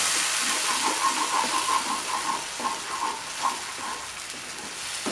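Tomato puree and ginger-garlic-chilli masala sizzling in hot coconut oil in a non-stick kadai as a spatula stirs it. A quick run of short, high blips sounds over the sizzle in the first few seconds, and the sizzle eases off toward the end.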